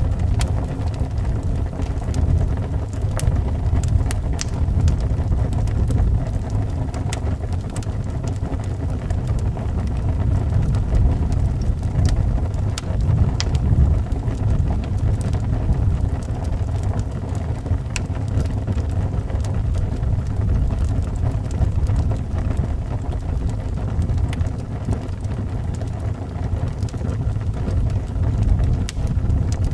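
Wood fire crackling, with scattered sharp pops and snaps, over a steady low rush of howling wind.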